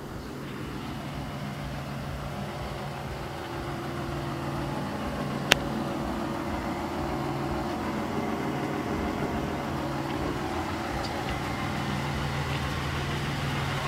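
1997 Chevrolet Malibu's 3.1-litre V6 idling steadily, with one sharp click about five and a half seconds in.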